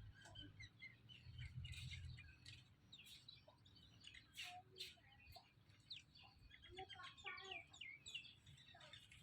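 Small birds chirping faintly: many short, overlapping chirps and quick little glides, with a soft low rumble about a second and a half in.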